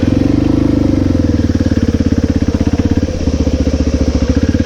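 Honda XR650R's big single-cylinder engine running at low revs with an even, rapid pulsing beat. The revs rise slightly within the first second.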